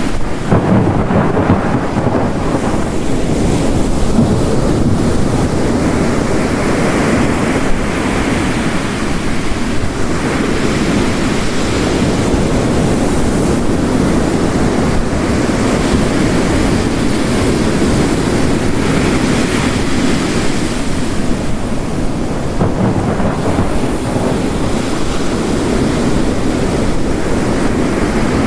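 Layered storm recording: ocean waves crashing on a rocky coast in slow swells under heavy rain, with a low rumble of distant thunder.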